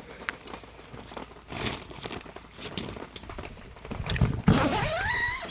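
Rustling and knocking from someone moving about a rain-soaked tent, with scattered footfalls, then a brief squeak rising in pitch about four seconds in.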